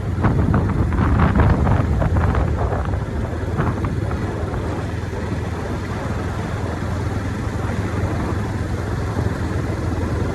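Motorcycle engine running steadily while riding, with wind buffeting the microphone and several short knocks in the first few seconds.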